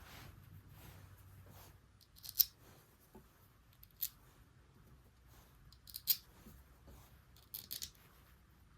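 Small hedge-trimmer carburetor parts being handled on a workbench: faint rustling and rubbing, with a few sharp clicks spaced about two seconds apart and a quick double click near the end.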